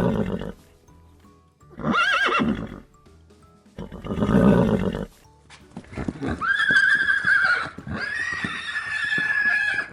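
Horse neighing several times: short calls near the start, about two seconds in and about four and a half seconds in, then two long, high whinnies from about six seconds on.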